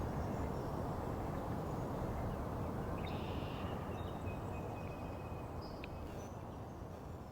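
Steady low outdoor background rumble, like distant traffic, with a few faint high bird whistles and calls about three to six seconds in.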